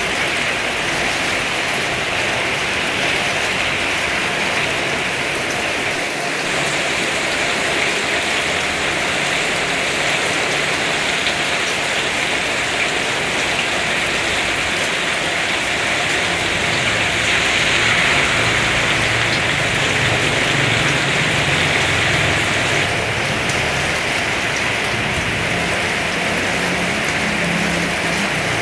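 Heavy rain pouring steadily, swelling a little louder a bit past the middle.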